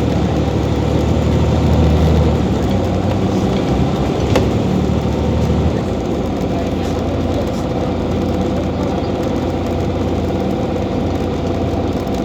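Scania OmniCity city bus's diesel engine running, its deep low note strong at first and dropping away about six seconds in as the engine eases off. One click about four seconds in.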